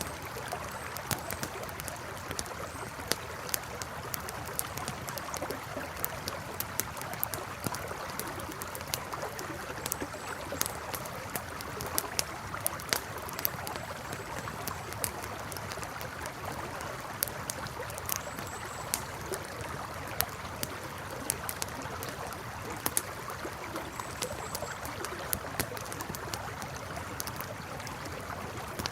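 Campfire crackling and popping in sharp, irregular snaps over the steady rush of a flowing river.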